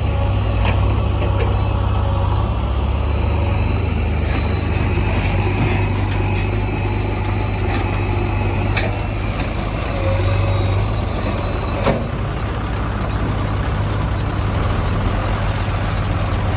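Heavy diesel engine running steadily, with a few sharp knocks, the loudest about twelve seconds in.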